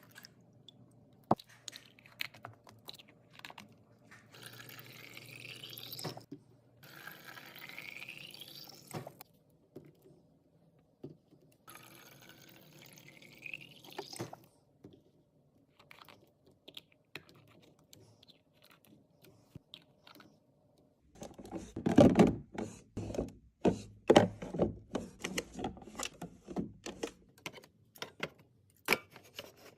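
Liquid poured into a container three times, each pour rising in pitch as the container fills. Later comes a quick run of knocks and clatter of items being set down.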